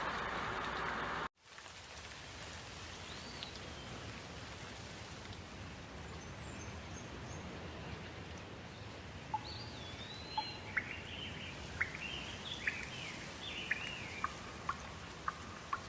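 Steady rain that cuts off abruptly about a second in, followed by a softer steady rain ambience with birds chirping and whistling. The bird calls become frequent in the second half.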